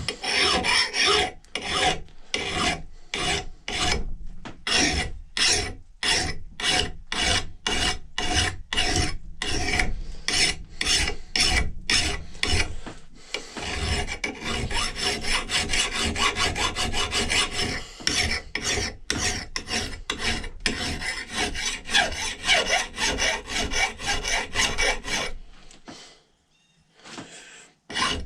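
Wooden axe handle being sanded by hand: even back-and-forth strokes about two a second, then faster, continuous rubbing in the second half, stopping shortly before the end.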